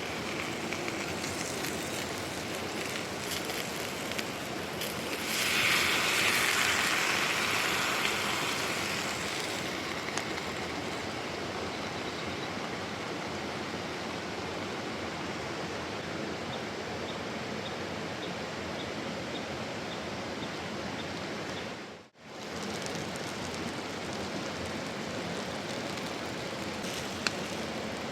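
Mountain stream rushing in a steady, even wash. A louder, higher hiss swells for a few seconds early on, then fades back. The sound cuts out for a moment about three-quarters of the way through.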